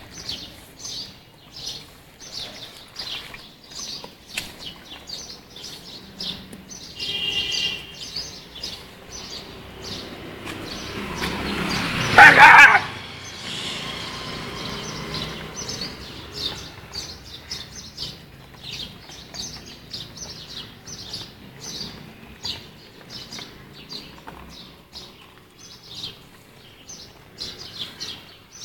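Small birds chirping repeatedly in short, high calls, with one loud burst of noise about twelve seconds in that swells and then cuts off.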